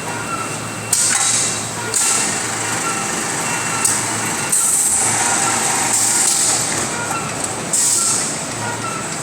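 Automatic 50 kg bagging machine running, with a sharp hiss that starts suddenly every one to three seconds over a steady mechanical din.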